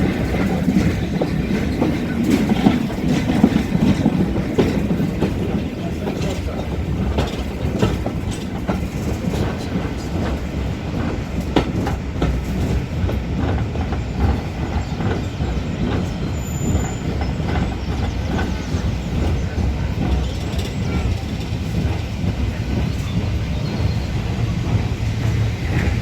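Heritage railway carriage rolling along the track, heard from on board: a steady low rumble with wheels clicking over rail joints as the train comes into its terminus station.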